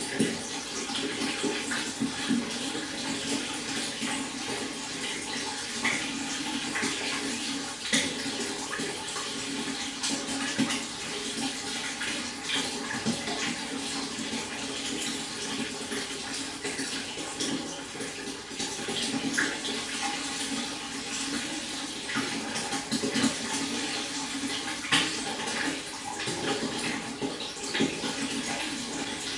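Stream water flowing and babbling steadily, a continuous rush full of small splashes and trickles, with a few brighter splashes now and then.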